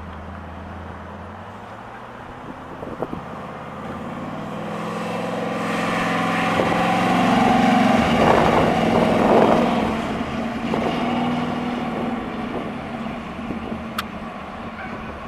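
1970 AMC AMX's 401 cubic-inch V8 running. It grows steadily louder and higher in pitch to a peak about eight seconds in, then eases off.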